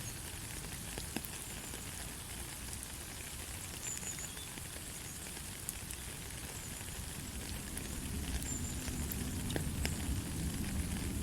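Steady light rain falling, an even hiss with scattered individual drops ticking sharply. A deeper rushing grows louder over the last few seconds.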